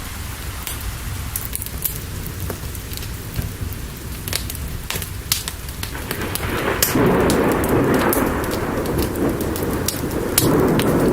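A fire crackling with sharp pops over steady rain. Thunder rumbles in about six seconds in and swells again near the end.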